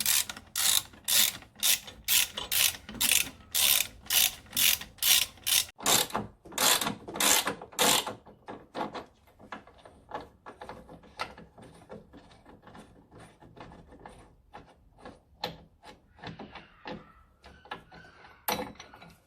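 Socket ratchet clicking as it is worked back and forth to undo engine mount bolts. Loud, evenly spaced clicks, about two and a half a second, for the first eight seconds, then fainter, quicker ticking.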